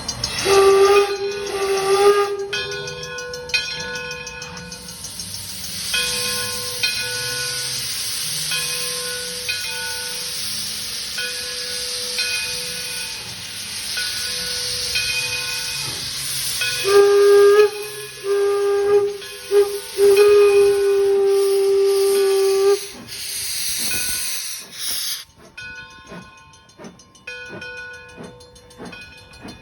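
D&LN No. 7 4-4-0 steam locomotive blowing its steam whistle once near the start, then in a run of blasts about 17 seconds in that ends in a long one, while steam hisses loudly. Through most of this a ringing tone repeats about once a second, and it carries on after the hiss stops about 25 seconds in.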